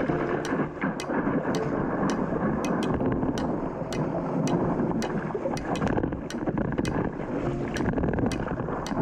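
Steady roar of breaking surf with wind buffeting the microphone. Faint light ticks recur about twice a second.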